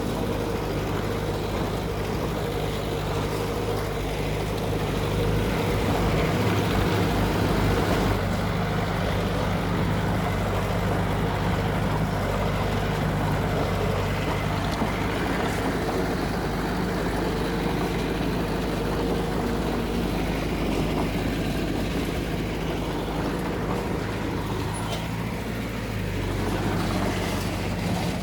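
Heavy diesel engine of an earthmoving machine running steadily at working revs, with the engine note dipping slightly in pitch near the end.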